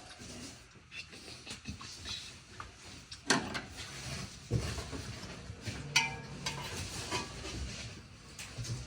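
Hand tools and loose metal parts clinking, scraping and knocking during work on a car engine: irregular sharp knocks, one about six seconds in with a short metallic ring.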